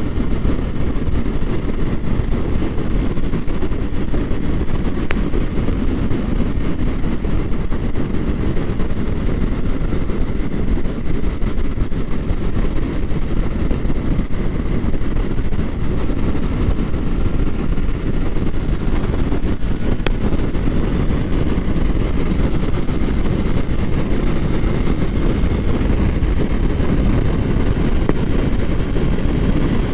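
Kawasaki Ninja 400 parallel-twin motorcycle cruising at freeway speed: a steady, unbroken rush of wind and road noise with the engine's drone underneath.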